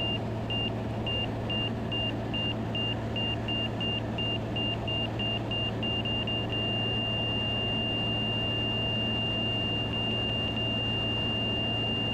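Stall/angle-of-attack warning tone beeping faster and faster and turning into a continuous tone about six and a half seconds in, over the steady drone of the RV-10's engine heard in the cockpit: the wing nearing the stall in the landing flare.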